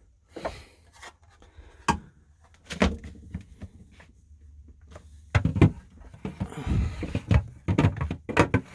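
Fiberglass-repaired fridge shelf being fitted back into a van's fridge: a few separate knocks, then from about five seconds in a dense run of clunks, clatter and rubbing as it is worked into place.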